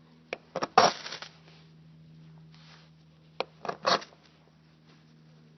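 Knife blade scraped hard down a flint (ferro) rod to throw sparks into a dry-grass and pine-straw tinder bundle: a quick run of sharp scrapes, the last one longest, then a second run of scrapes about three and a half seconds in.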